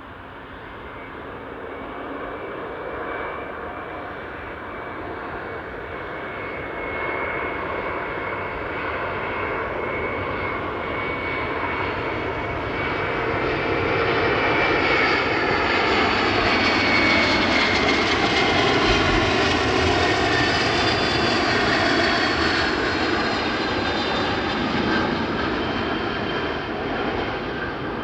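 Passenger jet airliner flying past low, its engines a steady rushing roar with a thin whine. It grows louder to a peak about two-thirds of the way through, then slowly fades.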